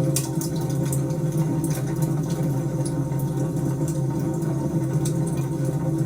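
Wood fire crackling, with frequent small pops and snaps over a steady low rumble of burning.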